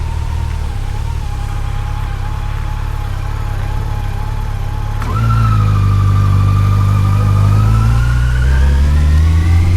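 Yamaha FJR1300's inline-four engine under way at a steady pitch; about halfway through the revs jump suddenly, as with a downshift, then climb steadily as the motorcycle accelerates.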